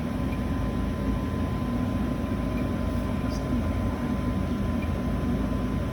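Residential gas furnace running in heat mode: a steady low rumble of the blower and burners, with a thin steady whine running through it.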